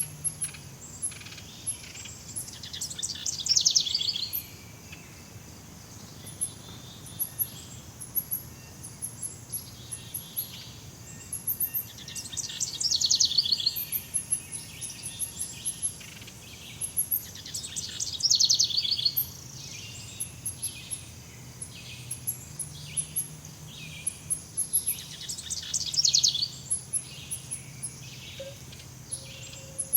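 Jungle ambience of birds calling: a loud fast trilling phrase repeats about every five to seven seconds, over a steady scatter of short, very high chirps and a faint low background hum.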